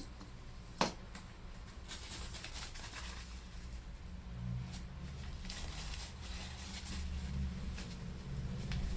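Intermittent light rubbing as the inside of a laptop is wiped clean, with a sharp click about a second in, over a low steady hum.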